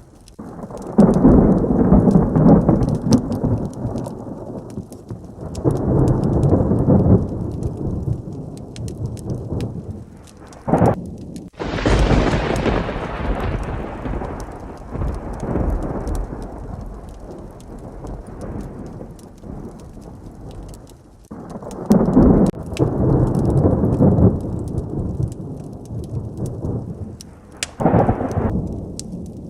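Heavy rain with repeated rolls of thunder. There are long rumbles about a second in and again around six seconds. About twelve seconds in comes a sharp, close thunderclap that rolls away over several seconds. More rumbles follow around twenty-two seconds and near the end.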